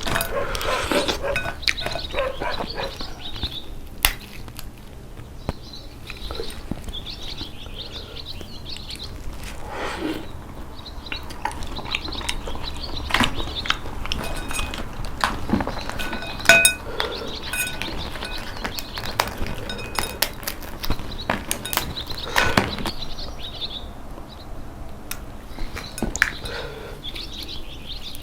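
Close-miked eating of red snow crab: shells cracking and snapping while the meat is sucked out and chewed, with a ringing clink against a dish about halfway through.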